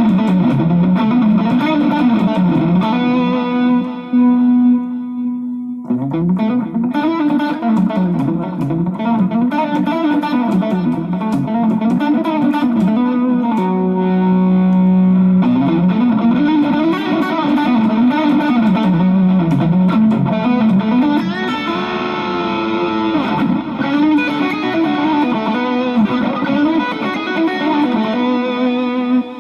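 Electric guitar fitted with a Duncan-style 102J treble bleed and an Orange Drop 223J tone capacitor, played through an amp with some distortion. It plays quick melodic runs, with a held note about four seconds in and another about fourteen seconds in.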